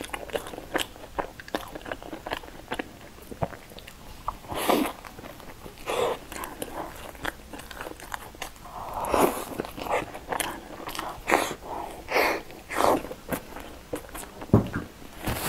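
Close-miked crunchy biting and chewing of a crisp fried pastry dipped in cream, with many sharp crackles at first and wetter mouth sounds later. A single thump near the end.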